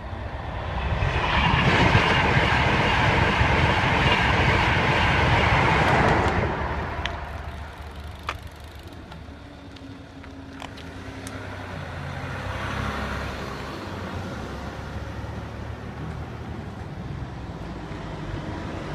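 A train passing the level crossing at speed: a loud rush of wheel and air noise that builds about a second in, holds for about five seconds, then fades. Quieter road-traffic rumble follows.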